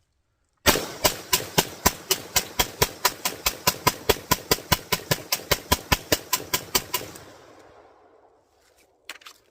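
3D-printed MAC-11-style 9mm pistol fired in a rapid string of about thirty shots, roughly five a second, each report echoing. The string stops abruptly after about six seconds on a failure to feed, and the echo fades, followed by a few small clicks of the gun being handled.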